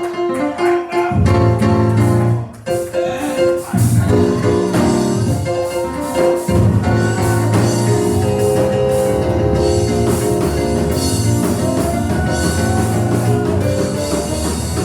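Church band music: organ or keyboard chords with bass and drum kit, played loud and steady.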